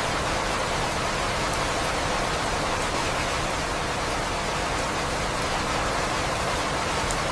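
Steady rain: an even hiss of falling water with a few faint drop ticks.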